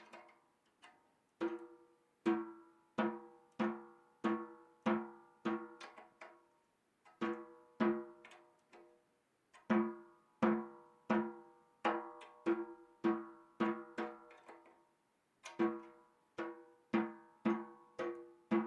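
Snare drum with the snares off, its head tapped lightly one stroke at a time, about two taps a second in short runs with brief pauses. Each tap rings with a clear pitch and overtones: the head is being checked at each lug so the overtones match all round.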